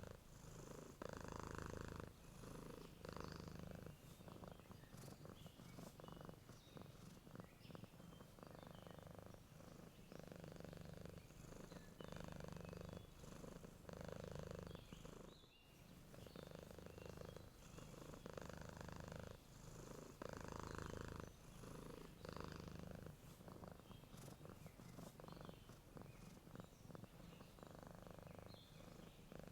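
Domestic cat purring close up, the purr swelling and fading with each breath in a slow, even rhythm. Faint bird chirps sound now and then in the background.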